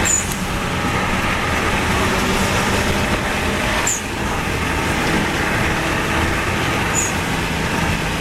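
Turbocharged Subaru Legacy Blitzen under way, heard from inside the cabin: steady engine and road noise. Three times (near the start, about four seconds in and about seven seconds in) a short high falling whistle comes from the turbo, with a brief dip in engine loudness.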